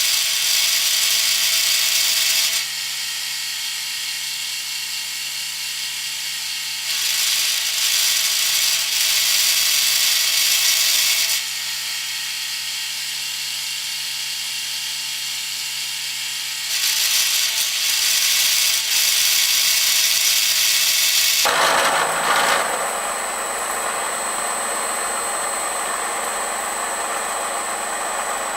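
Bridgeport milling machine running, its milling cutter taking passes along the side of a steel block: three stretches of hissy cutting noise alternate with the spindle running steadily between them. Near the end the sound shifts to a lower, rougher noise with a steady high whine.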